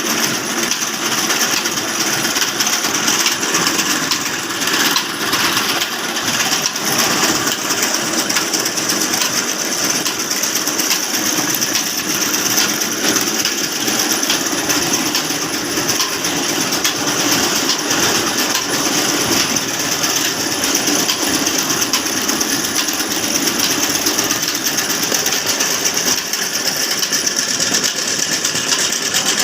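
Old Ruston Hornsby stationary diesel engine running steadily under work, with a fast, even mechanical clatter.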